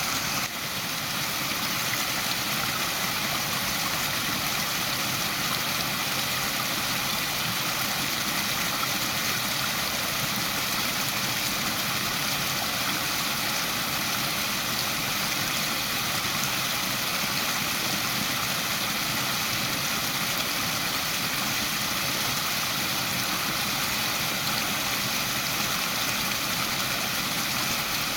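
Waterfall: a steady rush of falling water, even and unbroken, with a brief dip in level just after the start.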